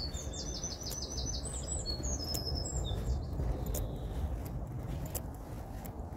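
A songbird sings a fast run of repeated high notes ending in a short flourish, lasting about three seconds. It rises over a steady low rumble.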